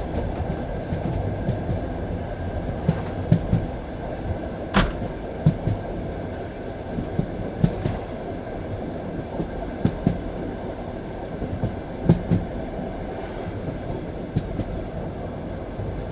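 Passenger train carriage running along the track: a steady rolling rumble with irregular knocks of the wheels over the rail joints, and one sharp crack about five seconds in.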